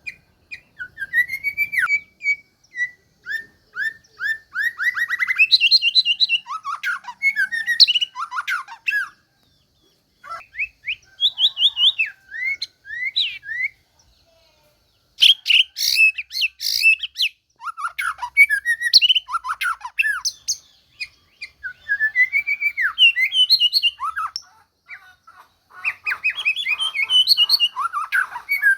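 White-rumped shama (murai batu) singing a varied song of clear whistled phrases, rapid repeated notes and fast trills, with two short pauses about nine and fourteen seconds in. Just after the second pause comes a burst of harsh, rattling notes.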